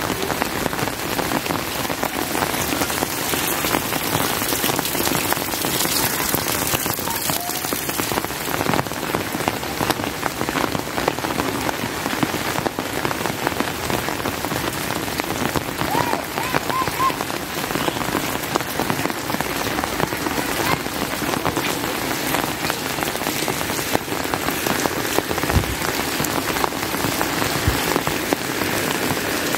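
Steady rain falling, a dense patter of individual drops striking surfaces.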